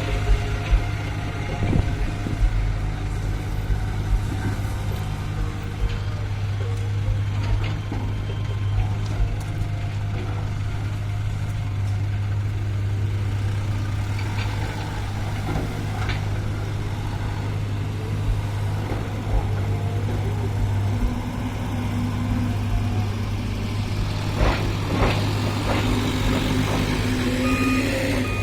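Heavy diesel engine of earthmoving equipment running steadily at a low rumble, with scattered clanks and knocks. Near the end a reversing alarm starts beeping.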